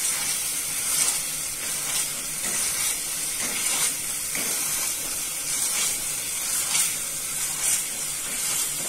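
Pav bhaji masala of onion, tomato and capsicum sizzling in an iron kadhai as a hand masher is pressed through it, with soft mashing strokes about once a second over a steady frying hiss.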